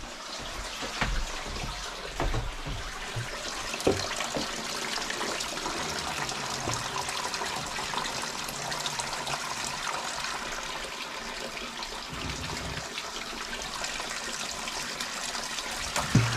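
Spring water running and splashing steadily, with a few low knocks.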